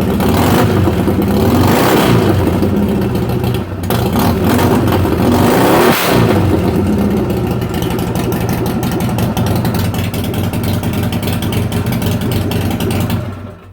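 Harley-Davidson XR1200's air-cooled V-twin running with its mufflers removed, loud. It is revved up and down a few times in the first half, then runs steadily and is shut off near the end.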